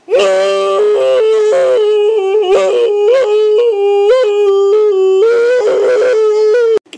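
A person's wordless vocal noise, a loud, high held tone that keeps flipping up and down between two pitches in yodel-like breaks, cut off abruptly near the end.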